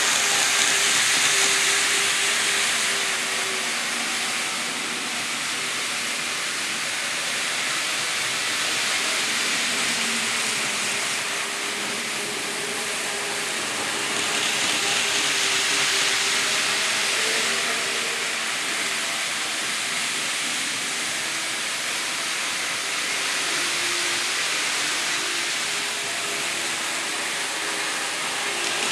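N scale model train running on its track: a steady whirring hiss with a faint motor hum underneath, swelling louder twice.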